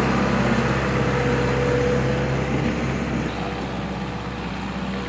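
Mahindra Arjun 555 tractor's diesel engine running steadily with a low hum, growing gradually fainter.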